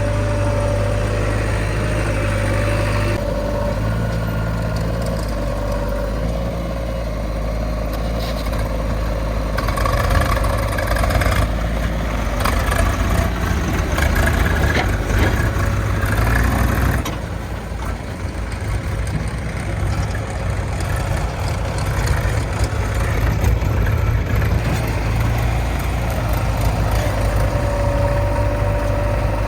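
Diesel engines of a JCB 3DX backhoe loader and farm tractors running at a worksite. In the middle the engine noise grows louder and comes with a run of rattles and clanks, then drops back to a steady running hum.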